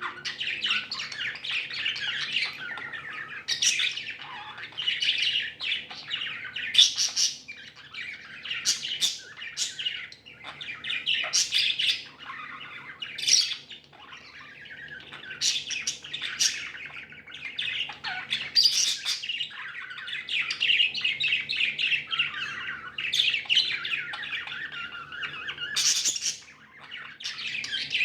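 Several budgerigars (budgies) chattering and warbling in a dense, unbroken stream, with sharp, louder squawks breaking through every few seconds.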